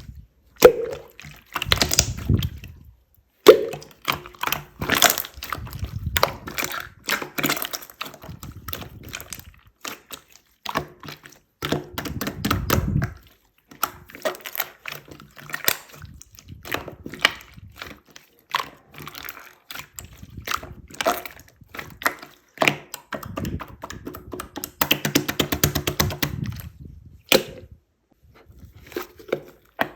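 Pink slime being squished, stretched and pressed by hand, giving wet squelches and quick, irregular crackling pops in bursts.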